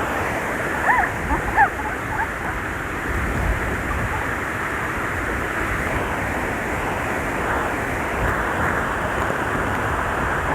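Rushing water from a stream waterfall, a steady full hiss. A few brief high-pitched chirps come about one to two seconds in.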